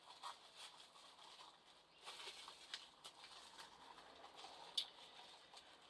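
Near silence with faint, scattered small clicks and soft rustling from paint containers being handled, with one sharper click near the end.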